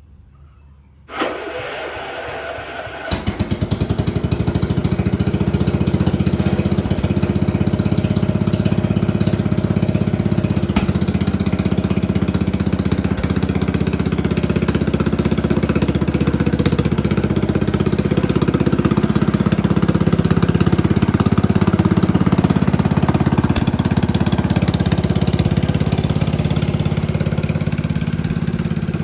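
Cub Cadet pulling tractor's Kohler Magnum 14 single-cylinder engine cranking on its electric starter for about two seconds, then catching and running steadily.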